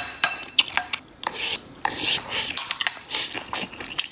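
Eating utensils clinking and scraping against a bowl in irregular strokes, a few clinks ringing briefly, as food is scooped up.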